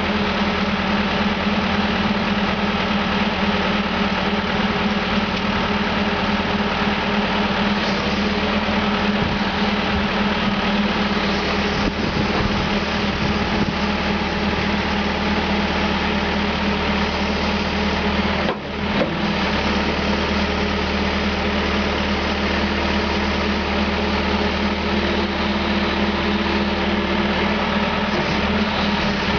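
Caterpillar 420E backhoe loader's diesel engine running steadily, with a brief drop in level about two-thirds of the way through.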